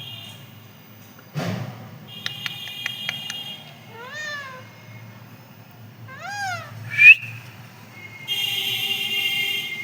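Pet parrot calling: two rising-and-falling meow-like calls, a loud sharp squawk about seven seconds in, then a harsh call held near the end. Earlier there is a knock and a quick run of clicks.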